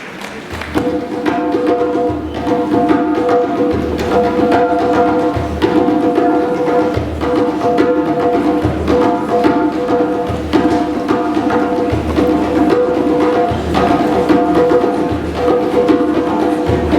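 Ensemble music starts about a second in: low drum strokes about every second and a half with lighter taps between, under sustained chords.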